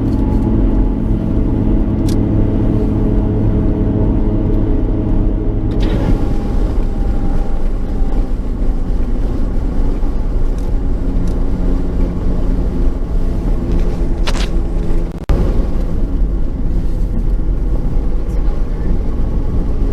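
A car driving: steady engine hum and road rumble. The engine tone changes about six seconds in, and the noise dips briefly about fifteen seconds in.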